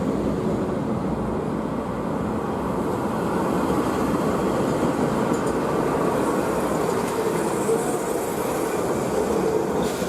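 Train running along the track: a steady rumbling noise.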